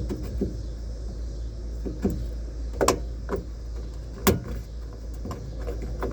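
Car dome light being pried out of the headliner: scattered plastic clicks and knocks as it is worked loose, with two louder knocks a little under three seconds in and just after four seconds in, over a steady low hum.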